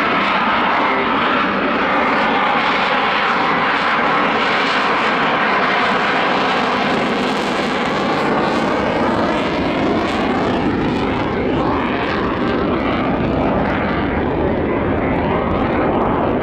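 Military jet aircraft engines running loud and steady as the jet flies a display pass, the tone sweeping as it moves past.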